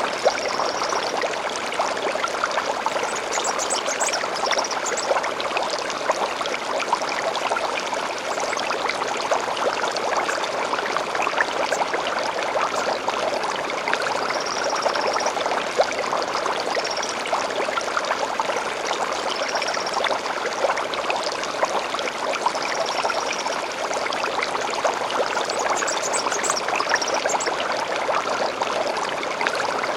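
Small stream flowing and babbling steadily, with short bird chirps and trills repeating every few seconds above it.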